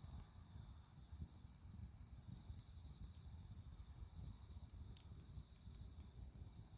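Dry firewood burning in an open fire, faint: a low flickering rumble of flames with a few sharp crackles and pops, the clearest about three and five seconds in.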